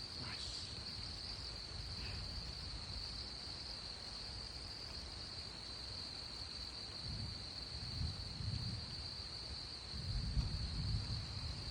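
Night insects, crickets or katydids, chirring steadily in one high, even band. Low rumbles swell up about two-thirds of the way through and again near the end.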